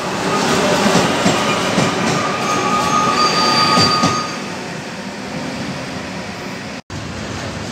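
Double-deck Hitachi Rock electric train running past along the platform, its wheels squealing in high steady tones over a rumble for the first four seconds, then rumbling more quietly. The sound drops out for an instant near the end.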